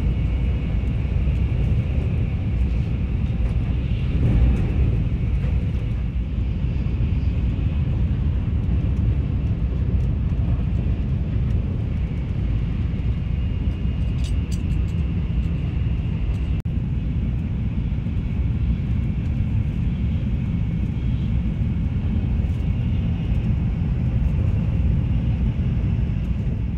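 Steady low rumble and hiss of a Shinkansen bullet train running, heard from inside the passenger car.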